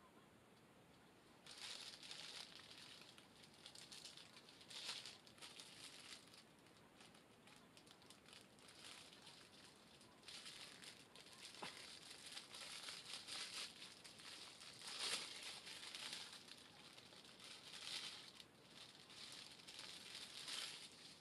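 Faint, irregular rustling and crinkling in short bursts of a second or two, with quieter gaps between.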